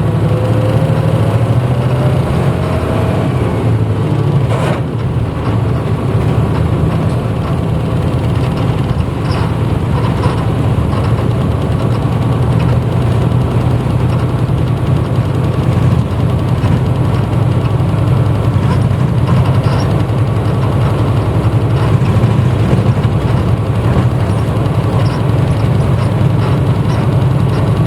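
1994 Hino Blue Ribbon U-HT2MPAA city bus engine heard from inside the passenger cabin while driving at medium revs. A steady low drone, with a faint rising whine in the first few seconds and a single sharp click about four and a half seconds in.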